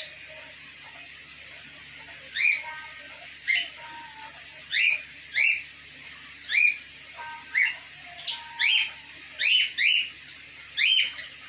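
Pet parrot giving a series of about a dozen short, sharp chirping calls, half a second to a second apart.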